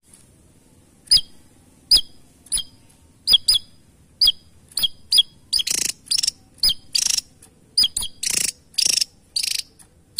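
Javan tesia calling with short, sharp, high chips spaced under a second apart. About halfway through, harsher rasping notes of about half a second each start to alternate with the chips.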